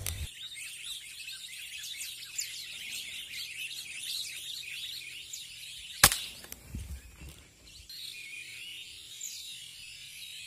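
A large flock of small birds chirping and chattering continuously. About six seconds in, a single sharp crack from an air rifle shot cuts through it.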